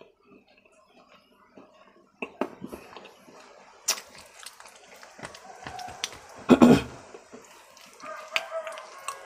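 Close-miked crunching and chewing of hard food: a string of sharp, crackling bites and wet mouth clicks starting about two seconds in, with one loud crunch a little past halfway.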